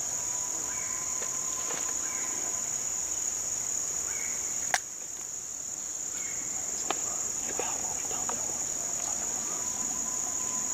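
Steady, high-pitched chorus of insects trilling, with faint distant tones underneath and a single sharp click a little under halfway through.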